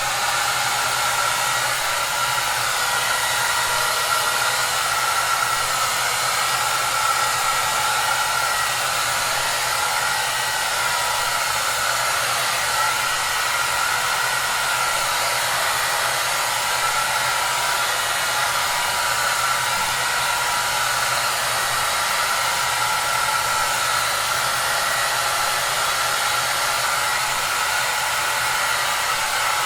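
Hair dryer running steadily: an even rush of blown air with a constant whine and a faint low hum beneath it.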